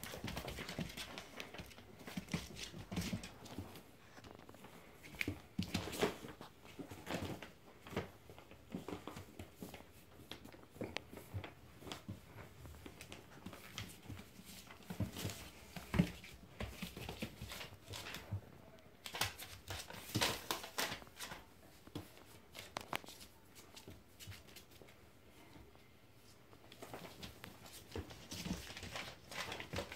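Puppies moving about and playing, making irregular scuffles, scratches and rustles, with occasional small dog sounds.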